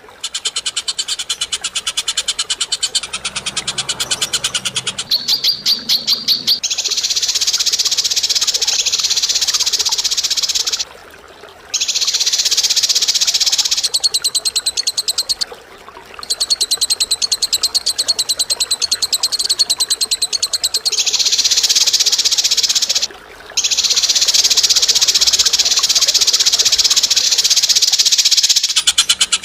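Bird call recording played as a training track: harsh, rattling trills made of fast, even pulses, high in pitch. They come in long unbroken runs of several seconds, with short pauses between them.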